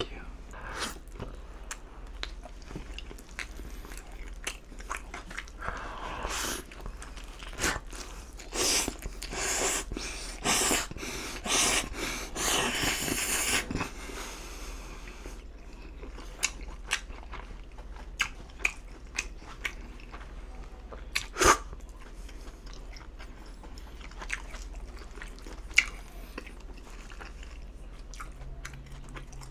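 Close-miked biting and chewing of a slice of pizza, with a dense run of crunchy bites into the crust around the middle and scattered sharp clicks, the loudest about two-thirds of the way through.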